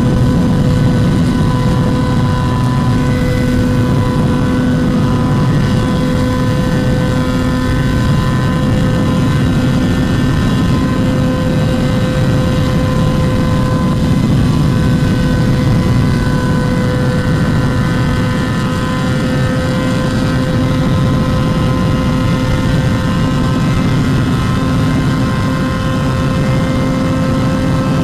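Motorcycle engine running at a steady, high speed under way, its note holding nearly constant pitch throughout, over a heavy rush of wind.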